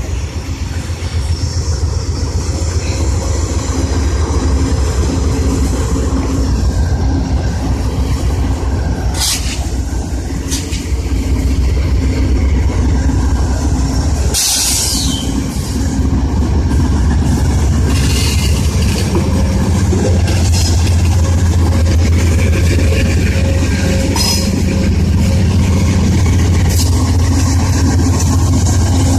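Diesel passenger locomotives running with a steady, loud low drone. There is a short hiss about halfway through and a few light clicks.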